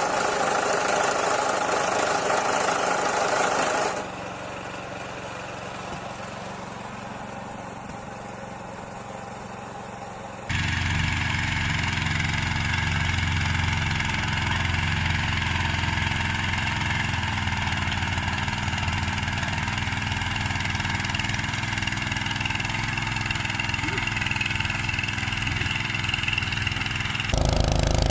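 Walk-behind tractor engines running steadily, heard in several clips joined by abrupt cuts. The sound drops to a quieter stretch about four seconds in, then turns louder and deeper from about ten seconds in.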